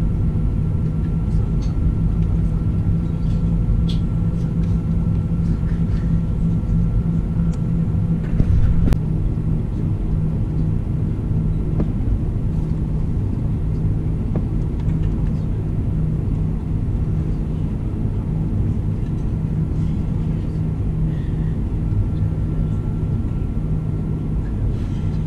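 Airbus A340-300 cabin noise: a steady low rumble of the jet engines and airframe with a constant hum, and a brief louder jolt a little under nine seconds in.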